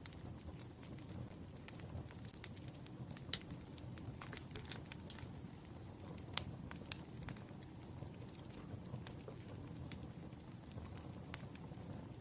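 Wood fire crackling: irregular sharp pops and snaps, a few louder ones, over a steady low rush of burning logs.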